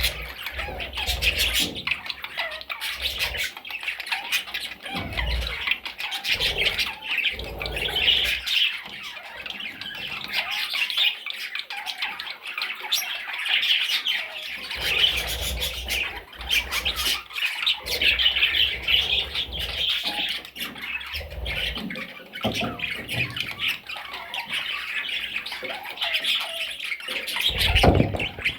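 Parrot chicks squawking in a steady stream of high, chattering calls. Occasional low thumps run under them, the strongest near the end.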